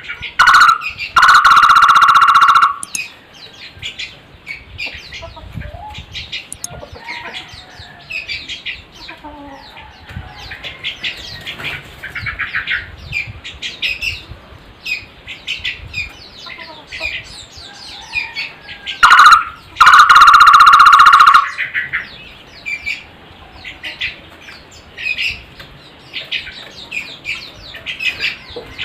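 Takur (barbet) calling: two very loud, fast-pulsed trilled calls, one about a second in lasting nearly two seconds and another about two-thirds of the way through, with softer short chirps and notes in between.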